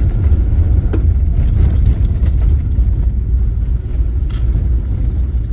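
Car driving at steady speed: a loud, steady low rumble of engine and road noise, with a single click about a second in.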